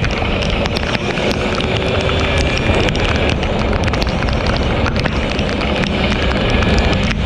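Two-stroke motorcycle ridden at speed in heavy rain: wind rushes over the microphone along with the engine's running, and many sharp ticks of rain strike throughout.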